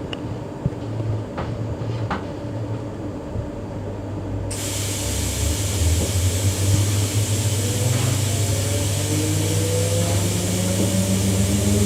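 Electric multiple-unit train interior: a low hum with a few light clicks, then a steady hiss starting suddenly, and the traction motors' whine rising steadily in pitch as the train accelerates.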